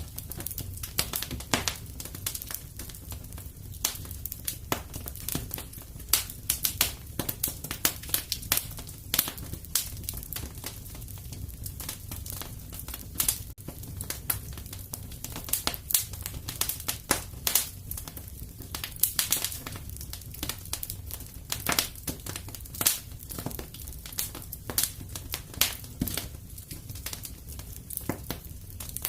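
Wood fire crackling in a fireplace: a steady run of irregular sharp pops and snaps over a low rumble of flames.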